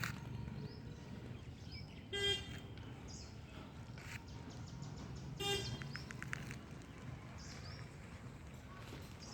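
Birds chirping in short rising notes over a steady low outdoor rumble. Two short, loud honk-like toots, about two seconds in and again about five seconds in, are the loudest sounds, the second followed by a quick run of clicks.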